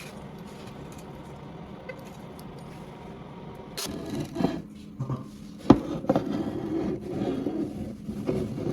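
Knocking and scraping of hard parts being handled and moved, starting about halfway through, with one sharp knock, over a steady low hum.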